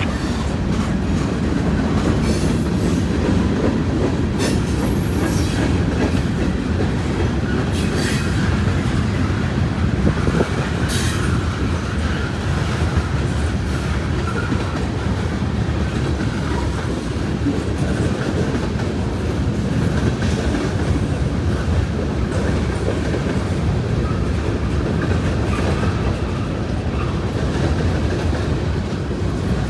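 Norfolk Southern train rolling past on the rails: a steady rumble with the clickety-clack of wheels over the track, and several short, sharp high squeaks or clicks in the first third.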